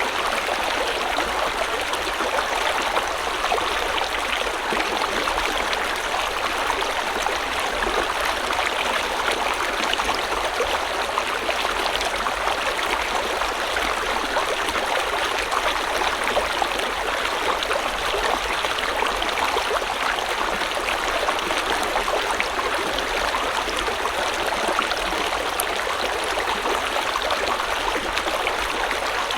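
A river flowing: a steady, unchanging rush of water with many small splashes mixed in throughout.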